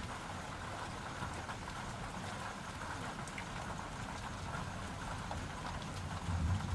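Steady rain falling, an even hiss of drops over a low rumble, with a brief louder low swell near the end.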